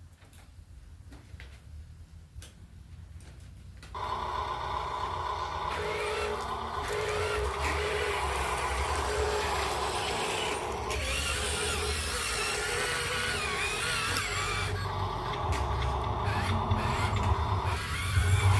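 A few light clicks, then about four seconds in a heavy vehicle engine starts sounding loudly and keeps running with a deep rumble, growing a little louder near the end.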